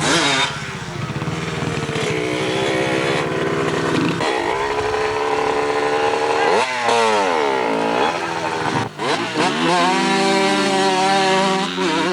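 Dirt bike engines running hard, their pitch repeatedly dropping and climbing again as the bikes rev and shift, with one long dip and climb about seven seconds in.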